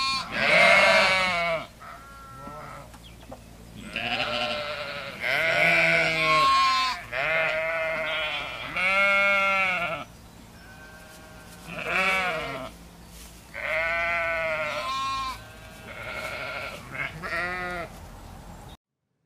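Goats bleating over and over, one long wavering call after another at varying pitches, until the sound cuts off abruptly near the end.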